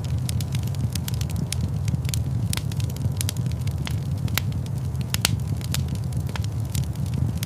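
Wood fire in a stone fireplace crackling, with irregular sharp pops and snaps, a few a second, over a steady low rumble of the flames.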